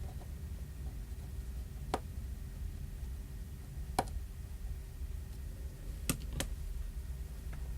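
Four light, sharp clicks of small hand tools on a phone being repaired, two seconds apart and then a quick pair near the end, over a steady low hum.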